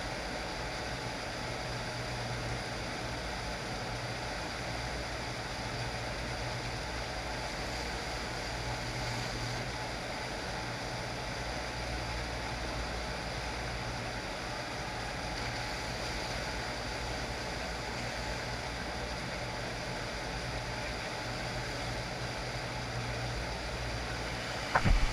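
FlowRider sheet-wave surf machine running: a steady rush of water with a low, even hum underneath. A few sharp knocks come near the end.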